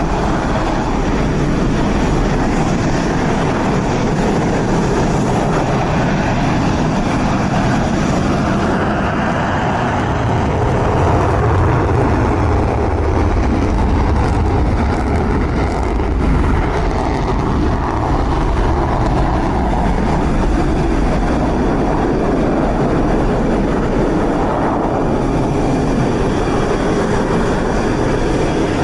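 Jet engines running: a loud, steady rumbling roar that swells slightly about midway through.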